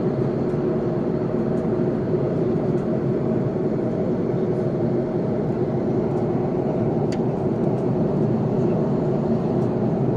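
Airliner cabin noise in flight: the steady drone of the engines and the airflow over the plane, with a constant hum.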